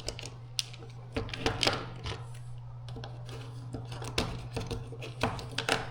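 Scattered clicks and light clatter of a Pro'sKit tool kit being handled, hard pieces knocking together, over a steady low hum.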